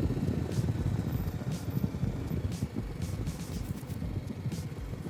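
Riding noise from a BMW G310 GS motorcycle on the move: a steady low wind rumble on the microphone over the engine, with a few faint ticks.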